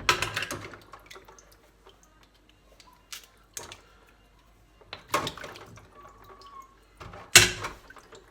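Water splashing and mussel shells clattering in a bowl as fresh mussels are rinsed and handled during cleaning, in a few short bursts with the loudest near the end.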